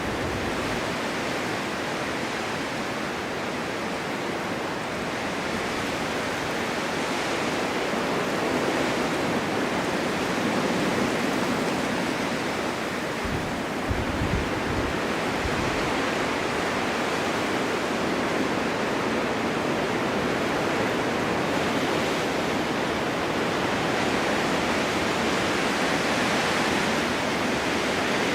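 Blizzard wind blowing steadily on a mountain, a dense rushing hiss of wind and driven snow that swells and eases slowly, with a few low buffets about halfway through.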